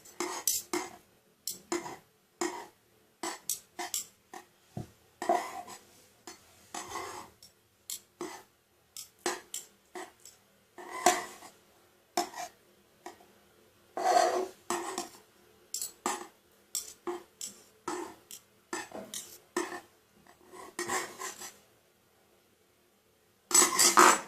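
Spatulas scraping and tapping on a plate in many short, irregular strokes, rolling up the thin spread strips.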